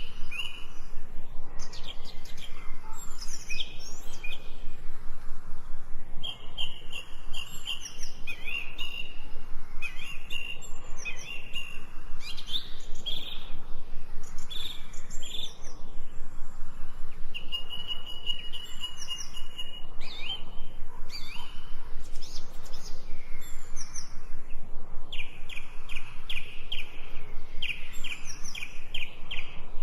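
Several songbirds singing and calling in a forest, overlapping chirps, whistled phrases and trills, over a soft steady hiss. Near the end one bird repeats a quick series of evenly spaced notes.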